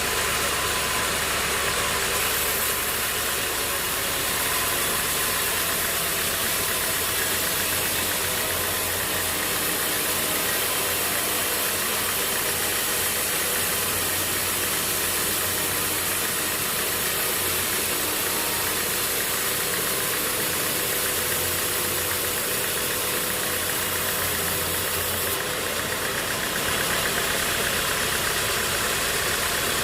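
Sawmill machinery's engine running steadily, with a rattle.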